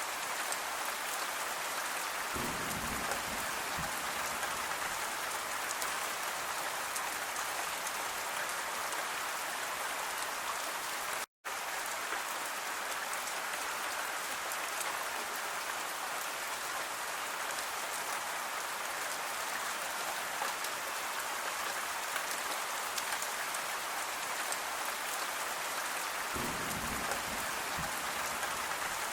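Steady rain falling, an even hiss with fine patter of drops. A brief low rumble comes twice, and the sound cuts out for a split second about eleven seconds in.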